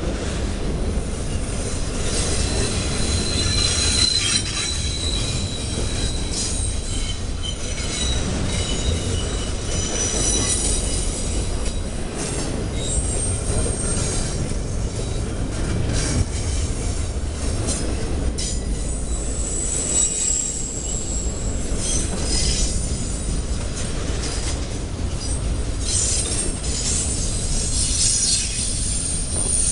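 Double-stack intermodal well cars of a freight train rolling past. A steady rumble of steel wheels on rail runs throughout, with high-pitched wheel squeals coming and going and frequent short clicks and clanks.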